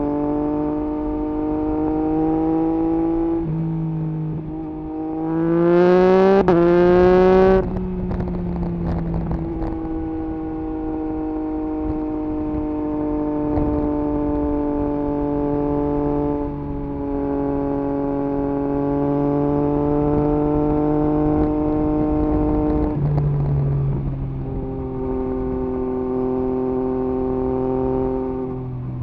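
2021 Yamaha MT-09 SP's 890 cc inline-three engine through an Akrapovič exhaust with the dB killer removed, heard from the rider's seat while riding. It runs steadily, then about five seconds in the revs climb hard for about three seconds, the loudest part, before falling back to a steady cruise whose pitch sinks slowly. The engine note changes again near the end.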